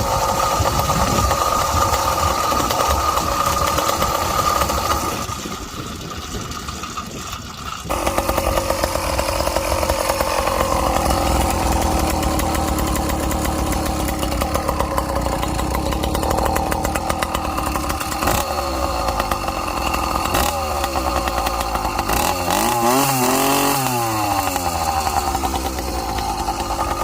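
Zeda YD100 two-stroke motorized-bicycle engine with an expansion-chamber pipe, running under way with the throttle varying. It eases off for a few seconds near the start, then picks back up, and gives a quick rev up and down about two-thirds through. The carburetor is running rich, which the owner says makes it four-stroke in the medium-to-top range.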